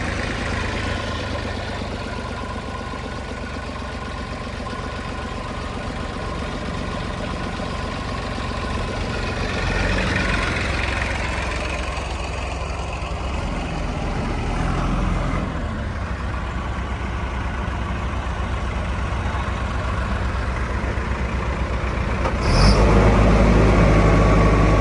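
Heavy diesel engine of a backhoe loader or farm tractor running steadily, rising and falling slightly as it works. About 22 seconds in there is a sharp click and the engine suddenly gets louder.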